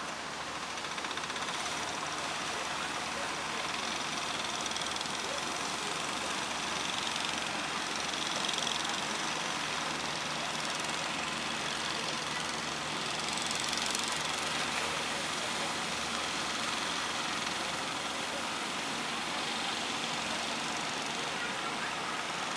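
A boat's engine running steadily under a constant rush of waves and water noise.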